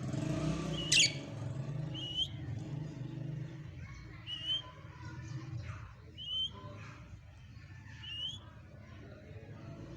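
A parrot giving short, rising chirps, repeated about every two seconds, with one sharp, louder call about a second in, over a steady low hum.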